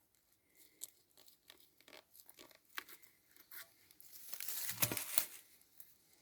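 An unknown tree fruit being pried open by hand: small scattered cracks and crackles, then a louder crackling stretch with two sharp cracks about four and a half to five seconds in as the husk gives way.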